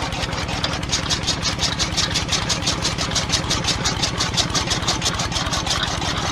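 Small electric motor driving a miniature DIY machine, running steadily with a fast, even clatter of about seven strokes a second. It cuts off suddenly at the end.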